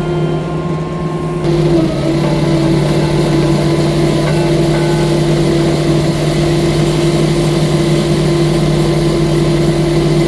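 Six-ton compact track loader's engine running steadily, its pitch stepping up slightly about two seconds in and then holding.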